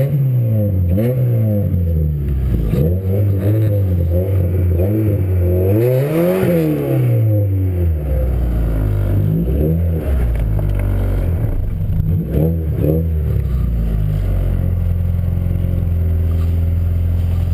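Cammed race car engine being revved repeatedly, its pitch rising and falling several times, with the highest rev about six seconds in, then settling to a steady idle near the end.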